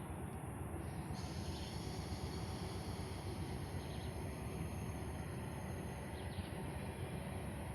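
Rural forest ambience: a steady high-pitched insect drone with a few short, faint bird chirps over a low, steady rumble.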